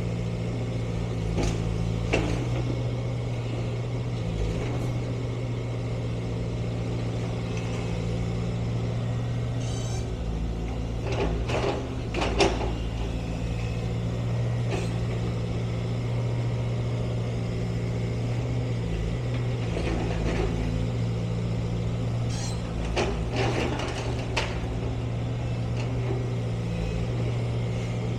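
A heavy engine running steadily with a low hum, with a few short knocks and clatters, loudest about halfway through.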